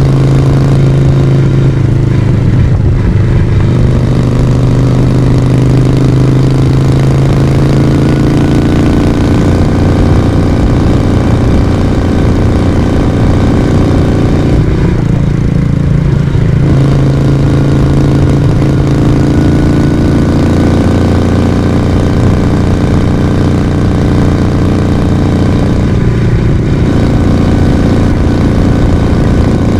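Moto Guzzi V35's small air-cooled transverse V-twin running under way, heard from the rider's seat with its exhaust note steady. The note dips briefly three times, about 3, 15 and 26 seconds in, then picks up again.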